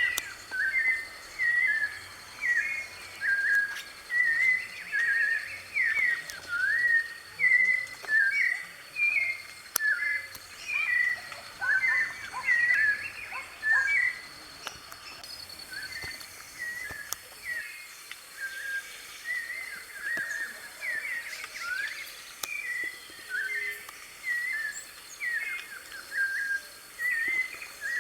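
White-necked thrush (sabiá-de-coleira) singing a continuous run of short, slurred whistled phrases in quick succession, somewhat softer in the middle. A steady high-pitched tone sounds behind it.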